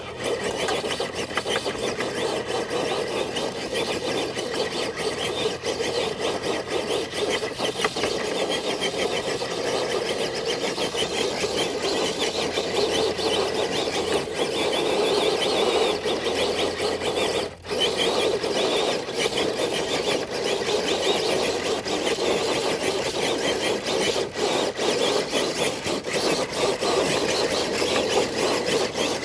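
Stock Traxxas TRX4 RC truck's electric motor and geared drivetrain whining steadily under load as it drags a brick-weighted dead sled, with the sled scraping along the ground. The sound briefly drops out a little past halfway.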